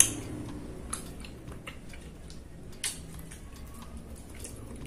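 Close-miked chewing and mouth sounds of someone eating rice and satay, with a sharp click right at the start and a few softer clicks later.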